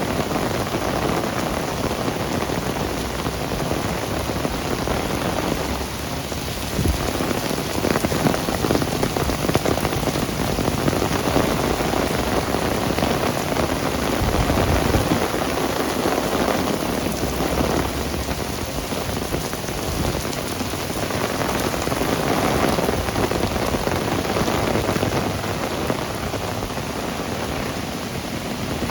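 Heavy rain pouring steadily, with a low rumble swelling up a couple of times.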